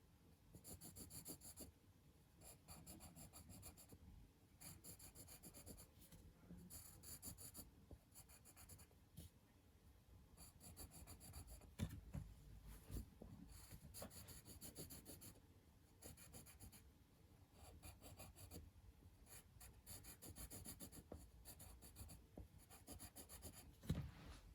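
Faint scratching of drawing strokes on a surface, coming in short repeated bursts, with a couple of light knocks about halfway through.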